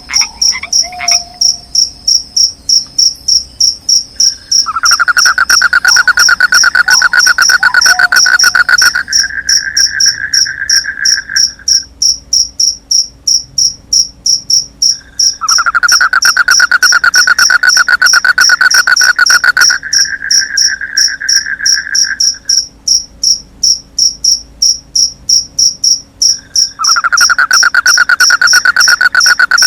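Crickets chirping in a steady high pulse, about two chirps a second. A louder, lower trill joins in bouts of several seconds about every ten seconds, and a few faint frog croaks come in early on.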